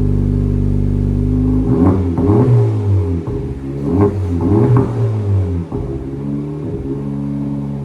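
2024 Honda Civic Type R's 2.0-litre turbocharged four-cylinder through an AWE 3-inch stainless cat-back exhaust with the rear mufflers deleted: idling, then revved twice, about two and four seconds in, each rev rising and falling back before it settles to idle again.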